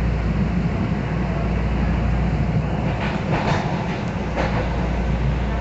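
Miami-Dade Metrorail train running, heard from inside the car: a steady low rumble with a few short rasping, hissing bursts about three to four and a half seconds in.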